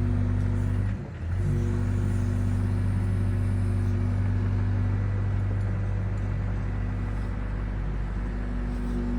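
Excavator engine running steadily with a low hum, briefly dipping about a second in.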